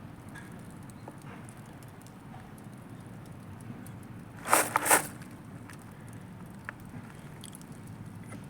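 Backyard bonfire of tree branches burning, with scattered faint crackles over a steady low rumble. About halfway through, two loud, harsh bursts of noise come in quick succession.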